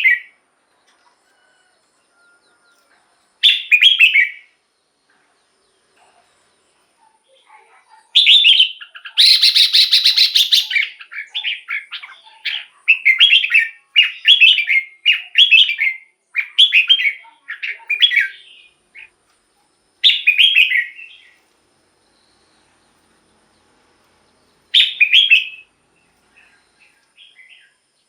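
Red-whiskered bulbul singing in short, bright, warbled phrases: one about four seconds in, then a long run of phrases from about eight to nineteen seconds with a harsher, fuller burst near ten seconds, then single phrases near twenty and twenty-five seconds.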